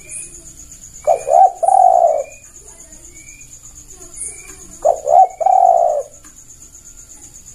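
Spotted dove (tekukur) cooing: two calls about four seconds apart, each a couple of quick short notes running into one long drawn-out coo.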